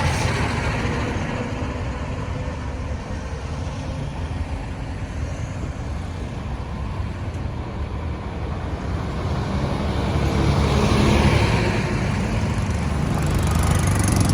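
Road traffic passing: engines and tyre noise from cars, trucks and motorbikes. A louder vehicle with a deep engine rumble passes about ten seconds in, and traffic swells again near the end.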